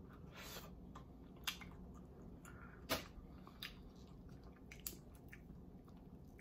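Faint close-miked chewing of giant tiger prawn meat and roe, with a brief soft slurp near the start and a few sharp, wet mouth clicks and smacks.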